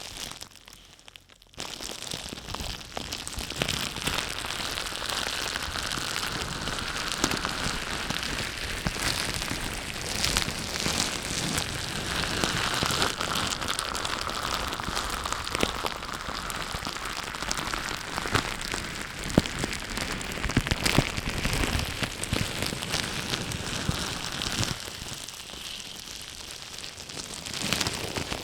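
Dense crackling, rain-like noise with many scattered sharp clicks, starting about a second and a half in.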